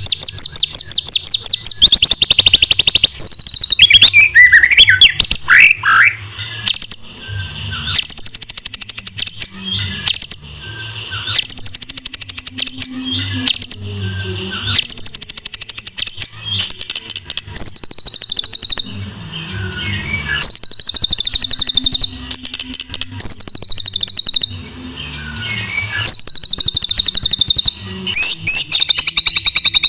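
White-rumped shama singing a loud, varied song of high whistles and rapid trills, delivered in phrases a few seconds long with short breaks between them.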